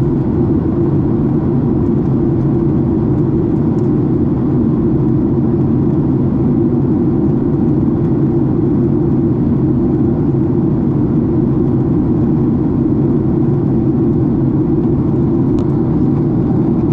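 Steady low noise inside the cabin of a Boeing 767 airliner, its engines and the airflow over the fuselage running without change.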